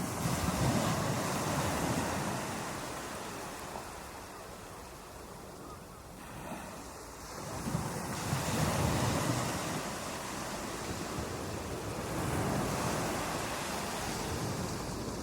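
Ocean waves breaking on a beach: a steady wash of surf that swells as a wave crashes, ebbs, and swells again, with a crash near the start, another about eight seconds in and a smaller one near twelve seconds.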